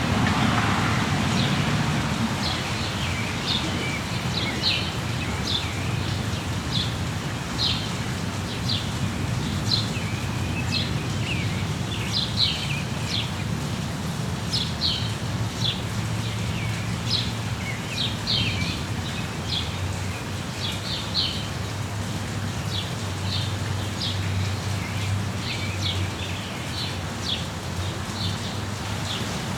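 Small birds chirping in quick, short, high notes, again and again, over steady rain. A low rumble fades out over the first couple of seconds.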